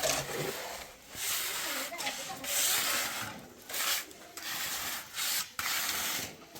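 A hand tool scraping across wet cement mortar in repeated strokes, about one a second with short pauses between.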